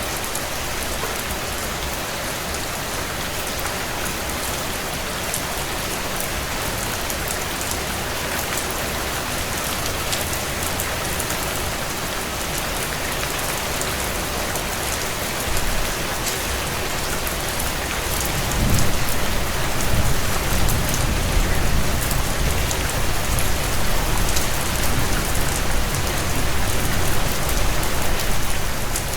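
Heavy rain pattering steadily on window panes, a dense even hiss flecked with fine ticks. About two-thirds of the way in, a deep low rumble comes in and makes it louder.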